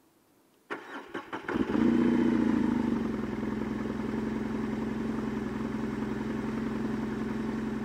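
BMW R18's big boxer-twin engine starting: a few clunks as the starter cranks it, then it catches about two seconds in at a raised idle and settles into a steady idle.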